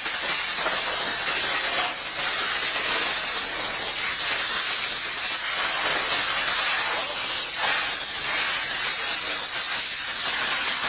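A loud, steady hiss, like steam or spray, holding an even level throughout.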